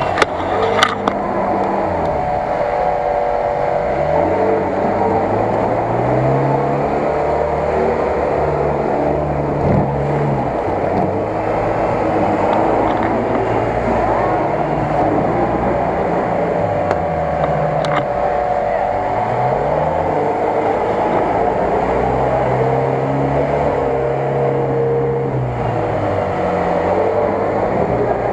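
UAZ-469 off-roader's engine revving up and down again and again as it pushes through deep mud ruts.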